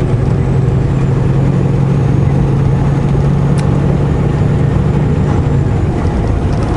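Semi truck's diesel engine running steadily while driving, heard from inside the cab as a low, even hum, with a single light click about three and a half seconds in.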